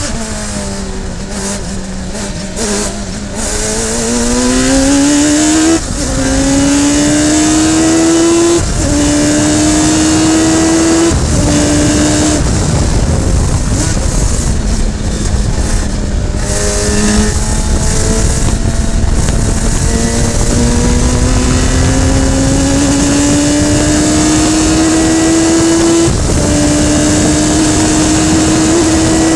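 Radical SR3 sports racing car's engine at racing speed: the note falls as the car slows at first, then climbs through the gears with three quick upshifts, each a sudden drop in pitch. It falls again as the car slows for a corner, then makes one long slow climb and a final upshift near the end.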